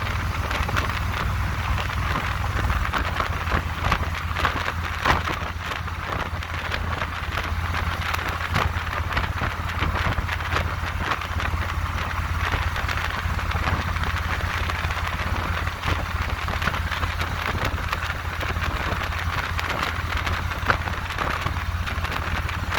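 Wind buffeting a GoPro microphone on a moving Harley-Davidson motorcycle, a steady crackling rush over the engine's constant low drone.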